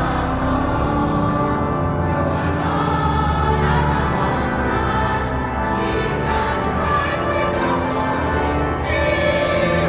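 Choir singing sacred music with organ accompaniment, in a cathedral's reverberant acoustic.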